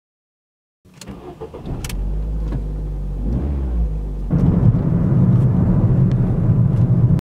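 Car engine starting, with a couple of clicks as it catches, then running steadily. It gets louder a little after four seconds in.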